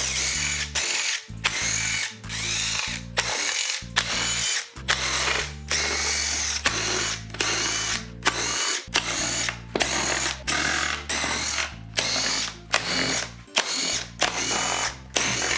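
Handheld cordless power tool, a drill-driver or electric ratchet, run in many short whirring bursts in quick succession, typical of backing out bolts one by one.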